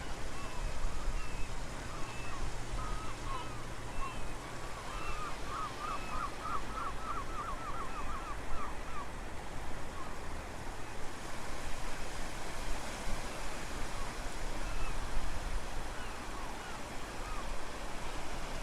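Ocean surf and wind make a steady rushing noise. Over it, birds call, with a quick run of about a dozen repeated calls roughly five to nine seconds in.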